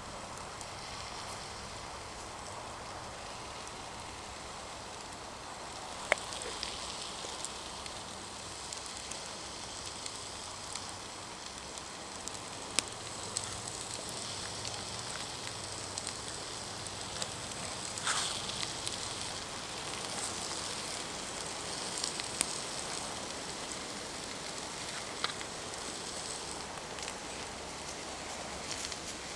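Campfire crackling: a steady hiss broken by occasional sharp pops.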